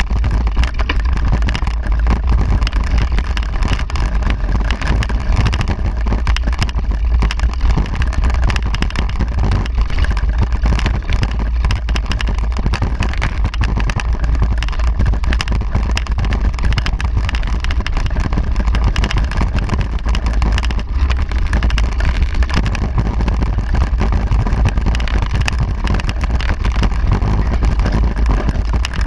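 Wind buffeting the microphone of a camera riding along on a moving bicycle: a loud, steady low rumble with dense crackle.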